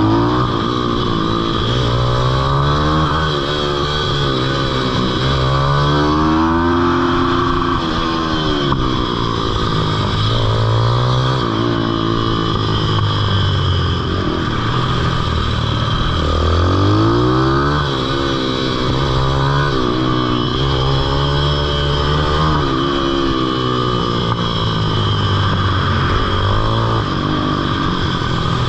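Pitbike's small single-cylinder engine revving up and easing off again and again, its pitch climbing and dropping every few seconds as the bike accelerates and slows through the corners.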